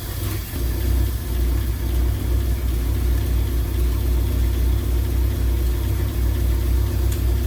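1963 Mercury's engine idling on a freshly rebuilt Motorcraft 2100 two-barrel carburetor, a steady low rumble that comes up a little in the first second and then holds. The idle is not yet set right: the carburetor still needs adjusting and the idle speed raising a touch.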